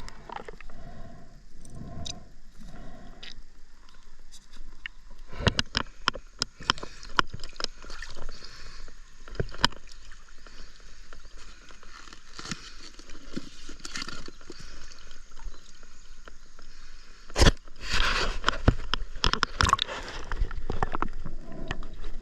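River water sloshing and gurgling close to the microphone, mixed with many sharp knocks and scrapes. The knocks and splashing grow louder and busier near the end.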